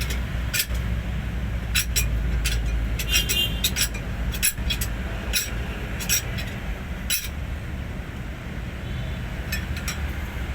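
Metal hand tools clinking and knocking in quick, irregular strikes during work on a truck engine, over a steady low hum.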